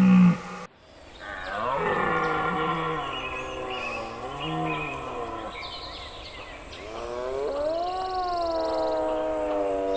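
Deer calling with long, drawn-out pitched bellows. One call breaks off at a sudden cut just after the start, a second lasts several seconds, and a third begins about two-thirds of the way through, rising and then holding steady.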